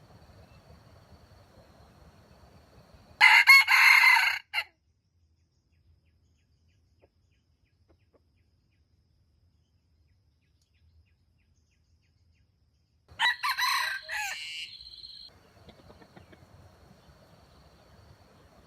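A rooster crowing twice: one short crow about three seconds in and a second, longer crow about thirteen seconds in.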